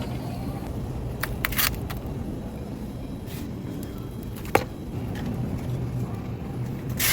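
Car on the move: a steady low engine and road hum, with a few short sharp clicks, one sharp knock about four and a half seconds in.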